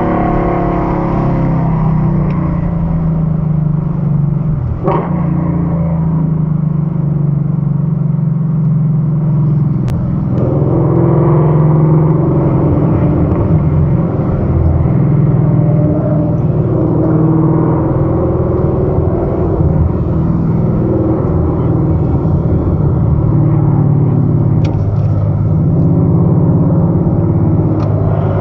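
Ford Mustang GT's 5.0-litre V8 heard from inside the cabin, running steadily at low revs while the car slows from about 70 mph to under 30 mph, its pitch dropping at the start.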